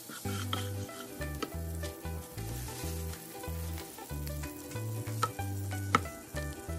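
Eggs sizzling as they fry in a pan, with a few sharp taps of a utensil against the pan, the loudest near the end. Background music with a stepping bass line plays underneath.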